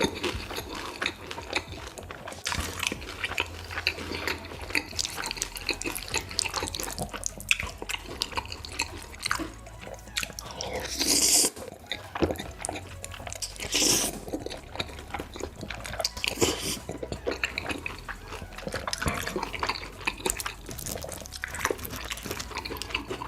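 Close-miked mukbang eating sounds of spicy noodles: a steady run of wet mouth clicks and smacks, with two louder slurps about halfway through and a few seconds later.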